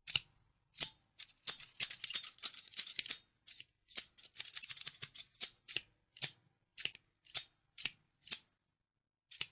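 Scissors snipping: quick runs of short snips, then single snips about every half second toward the end.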